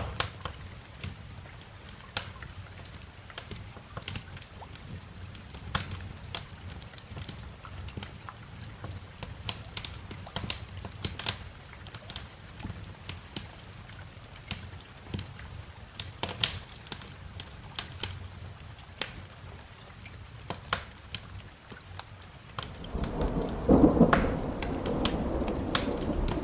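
Wood fire crackling with irregular sharp pops over a soft background of rain. About 23 seconds in, a rumble of thunder rolls in and carries on to the end, louder than the fire.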